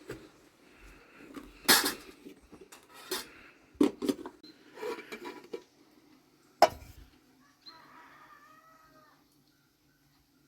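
Sharp knocks and clinks of dishes and cutlery, then a short wavering animal call about eight seconds in.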